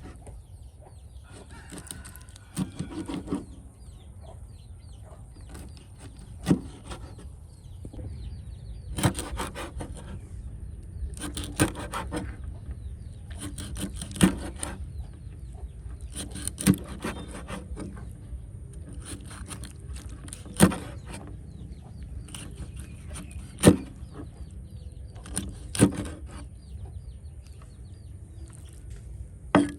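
Sharp single knocks on wood, repeated about every two to three seconds, like a blade chopping on a wooden board, with faint bird calls in the background.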